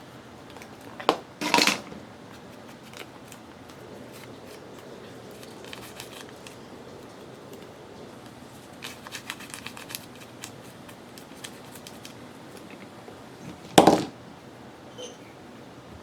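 Paper being handled at a craft desk: short crackly rustles of a paper scrap, two sharp clicks about a second and a half in, and a louder knock near the end.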